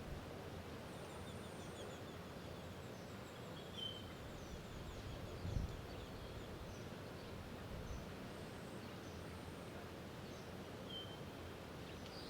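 Outdoor ambience: a steady low rumbling hiss with faint, scattered high bird chirps, and a single soft low thump about five and a half seconds in.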